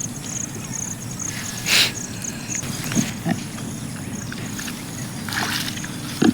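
Four-month-old pigs grunting and moving about, with a few short louder grunts or squeals over a steady background.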